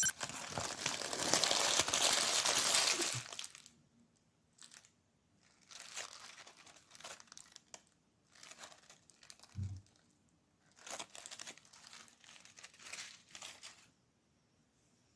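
Paper or plastic packaging being crinkled and rustled by hand: loud and continuous for the first few seconds, then in short separate bursts. There is a dull low thump about two-thirds of the way through.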